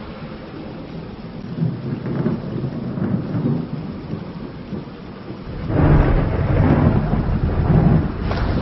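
Thunder rumbling over steady rain, with a louder rolling peal of thunder about two-thirds of the way through.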